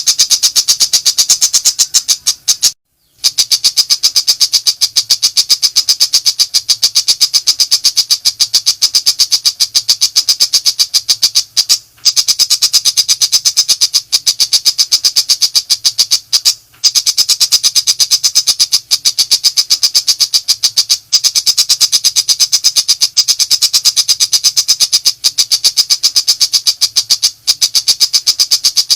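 Pentet macan shrike singing its rapid 'nembak' song: a fast, continuous run of sharp, high-pitched notes at about five a second, broken by brief pauses about 3, 12 and 17 seconds in.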